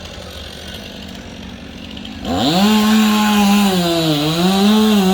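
Two-stroke chainsaw: a lower, steady engine noise, then about two seconds in the saw is throttled up sharply to a loud, high-pitched full-speed whine. The pitch sags briefly once under load about four seconds in.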